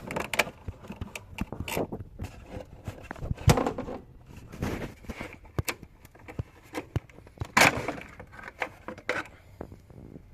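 Irregular clicks, knocks and short scrapes of hands working with tools and parts, with two louder knocks, one about three and a half seconds in and one near eight seconds.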